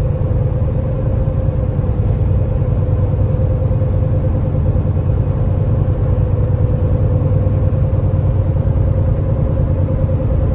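Semi-truck cab at highway speed: a steady low rumble of the diesel engine and road noise, with a steady mid-pitched whine over it.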